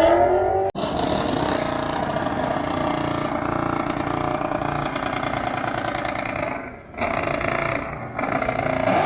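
Car engine revving hard with a mix of two-step launch-control revs and straight revs, held at high rpm. It cuts out sharply for an instant about a second in, and drops off briefly a little before seven seconds before coming back up.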